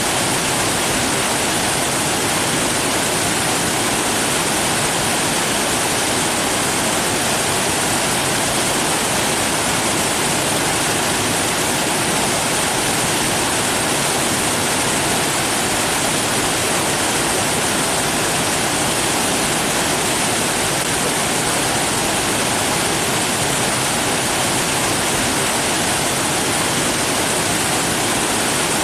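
Steady rushing water, an even unbroken roar with no change in level.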